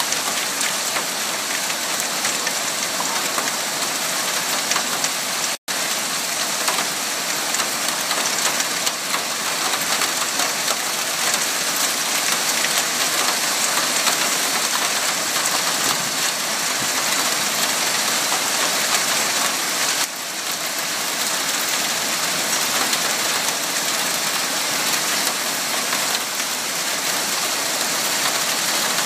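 Heavy downpour mixed with hail: a dense, steady hiss of rain speckled with fine ticks of stones and drops striking. The sound cuts out for an instant about five and a half seconds in.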